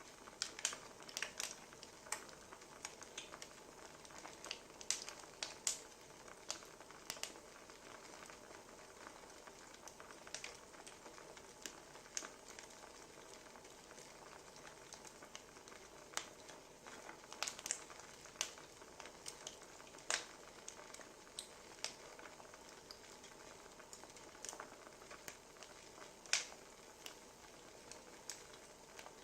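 Wood fire burning: a steady soft hiss with irregular sharp crackles and pops, one of the louder pops near the end.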